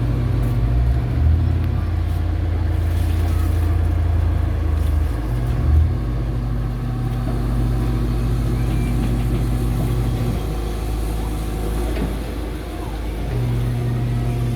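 Backhoe excavator's diesel engine running steadily, its note shifting in pitch as the machine works. The engine drops back about ten seconds in, then picks up again near the end.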